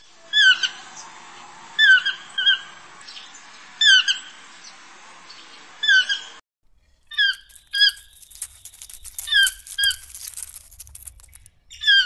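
A bird calling: short, pitched calls that bend down in pitch, in singles and quick pairs every second or two. About halfway through, a cut switches to a second recording of the same kind of calls with a hiss and a low rumble behind them.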